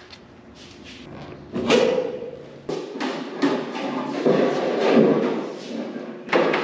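Irregular thumps and knocks with some clatter, from sheet metal panels being handled and fitted.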